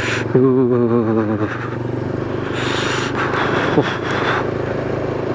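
Motorcycle engine running steadily. About half a second in there is a wavering pitched tone lasting about a second, and near the middle a brief burst of hiss.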